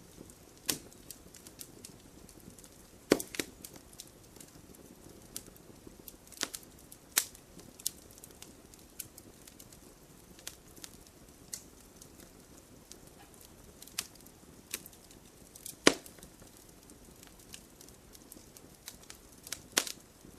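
Wood fire crackling: irregular sharp pops and snaps over a faint steady hiss, with a few louder cracks, the loudest about sixteen seconds in.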